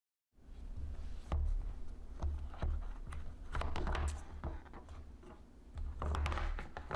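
Typing on a keyboard: irregular key clicks, with low thumps underneath.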